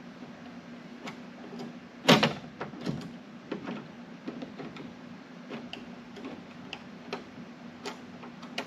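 A loud sharp knock about two seconds in, a few smaller knocks after it, then scattered light clicks and ticks, over a steady low hum.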